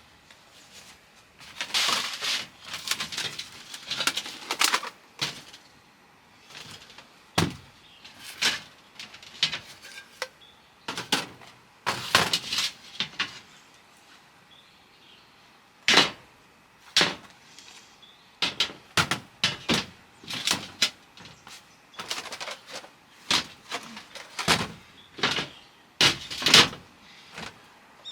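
Irregular rustling and clattering of things being handled, broken by a few sharp knocks, with short quiet pauses between.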